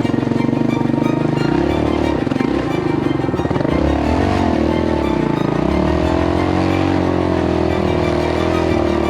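Background music over a Yamaha motorcycle engine running under load, its pitch rising and falling as the throttle changes.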